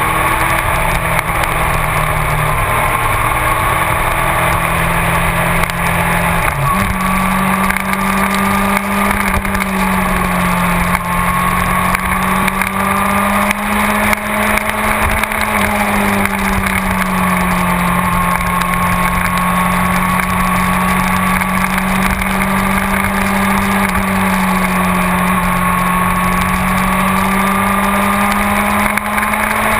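Yamaha R6 inline-four engine running under way on the road. Its note holds steady, jumps higher about seven seconds in, then rises and falls gently with the throttle.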